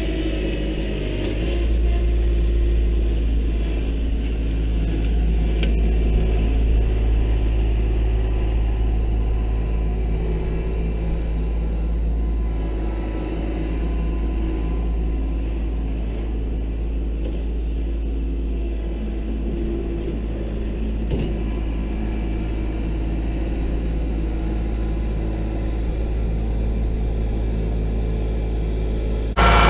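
Kubota L3901 compact tractor's diesel engine running steadily as a low rumble. It jumps abruptly louder right at the end.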